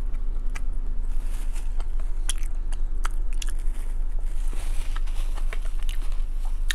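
Close-miked chewing of chili cheese fries: many short wet mouth clicks and smacks, over a steady low hum.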